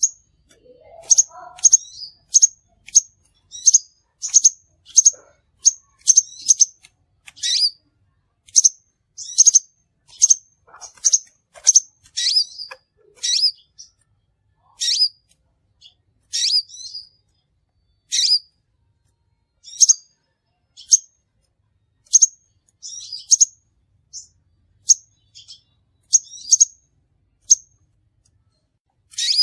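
Crimson sunbird (sepah raja) calling: short, sharp, high chips, some with a quick downward flick. They come in quick succession at first and grow more spaced out, about one every second or two.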